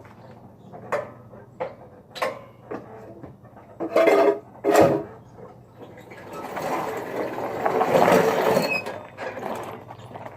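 Mini bike's small engine being pull-started: a few light clicks, then two loud pulls of the recoil starter about four seconds in, followed by several seconds of rattly mechanical noise as the starting attempts go on.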